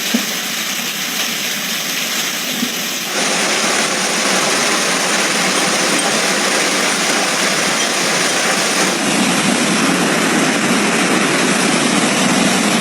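Steady, dense noise of a heavy downpour, with a couple of faint knocks in the first seconds. It shifts abruptly about three seconds in, where it gets louder, and again near nine seconds.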